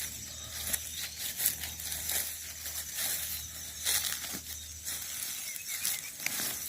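Footsteps crunching through dry leaf litter and twigs, coming at an irregular pace.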